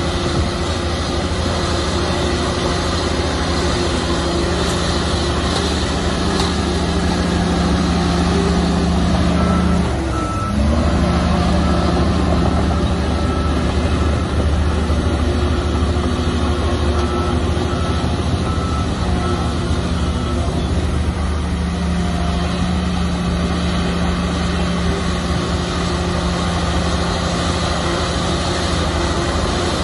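Shantui bulldozer's diesel engine running steadily under load, its revs dipping briefly and picking up again about ten seconds in. A reversing alarm beeps in two short spells, around the dip and again a few seconds later.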